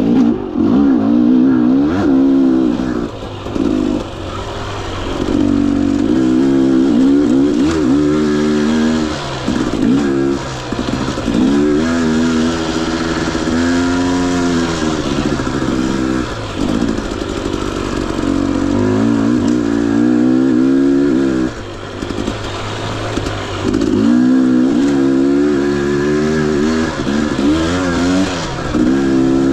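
Husqvarna TE 250i two-stroke single-cylinder engine on a dirt bike being ridden, revving up and down over and over as the throttle is opened and closed, with a few brief drops in level.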